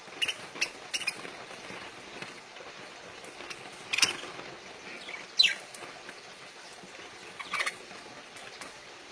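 Pet parakeets giving short, sharp chirps, a few at a time with gaps between, including a quick downward call about halfway through.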